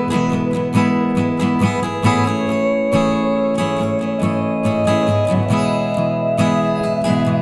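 Background music led by an acoustic guitar strumming chords in a steady rhythm.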